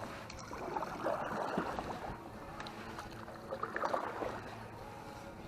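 Water sloshing and splashing around a small boat, with two louder splashy stretches, about a second in and about four seconds in.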